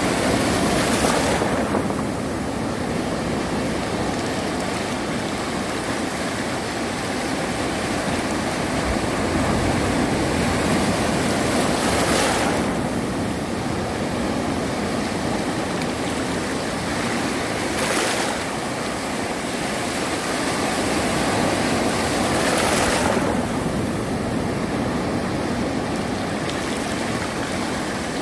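Sea surf washing steadily onto a beach, with a louder wave breaking four times.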